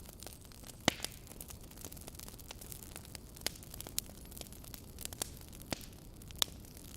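Wood logs burning in a fireplace: a steady low hiss of the flames with irregular sharp crackles and pops, a loud pop about a second in and another near the end.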